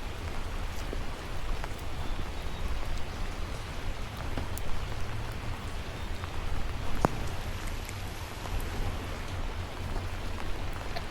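Light rain falling: a steady hiss with scattered sharp ticks of single drops landing close by, the clearest about seven seconds in, over a steady low rumble.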